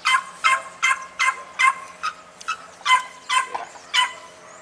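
A dog barking repeatedly in quick, sharp, high barks, about two to three a second, around ten in all with a brief pause partway through.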